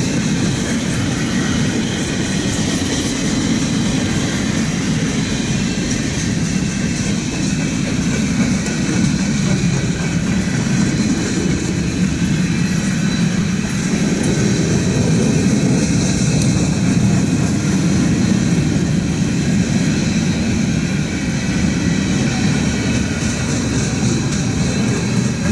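Freight cars of a Norfolk Southern mixed freight train rolling past, the steel wheels giving a steady rolling rumble over the rails.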